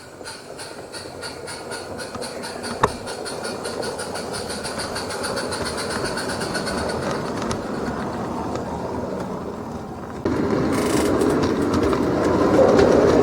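Goods train on a 32 mm gauge garden railway running over the track: a steady, rapid clicketty-clack of wheels on the rails over a rolling rumble. It grows louder as the train approaches, with a sharp click just under three seconds in and a clear step up in loudness about ten seconds in as it comes close.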